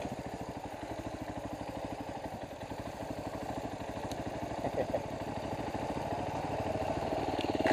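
Dual-sport motorcycle engine idling with a steady, even pulse, the engine note swelling a little louder near the end.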